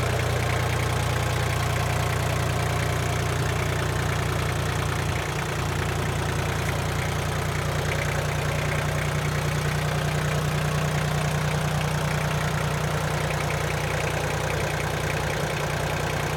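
Iseki TL2500F compact tractor's diesel engine running steadily, with a brief dip in level and a small shift in its note about five seconds in.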